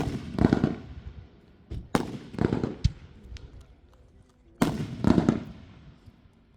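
Three fireworks going off about two seconds apart, each a sharp bang followed by about a second of rumbling echo that fades out.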